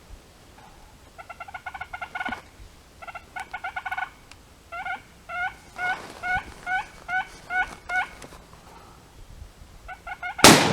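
Wild turkeys calling at close range: two quick rattling gobbles, then a run of about ten evenly spaced yelps. Near the end, a single loud shotgun shot rings out and echoes.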